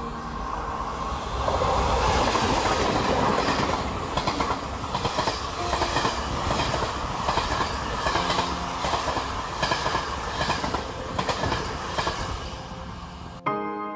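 Passenger train hauled by an electric locomotive running past at close range: a steady rush of running noise, loudest as the locomotive goes by, then a regular clickety-clack of the coaches' wheels over rail joints, about two clacks a second, easing off near the end.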